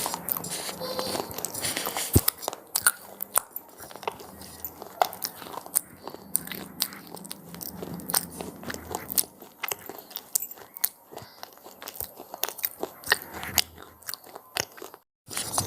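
Crunchy cheese pizza flavoured snacks being bitten and chewed close to the microphone: a continuous run of sharp crunches and crackles. The sound drops out for a moment near the end.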